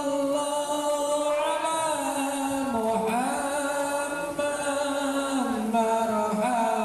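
Sholawat, a devotional Islamic chant, sung as one melodic line of long held notes that glide slowly from pitch to pitch.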